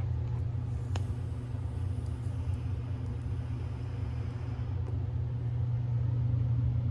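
A steady low hum or rumble, with a single faint click about a second in.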